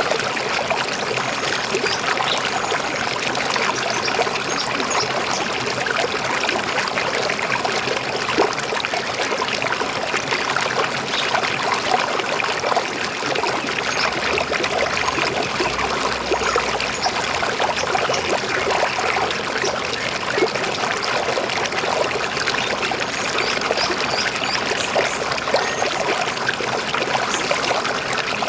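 River water flowing with a steady, even gurgling.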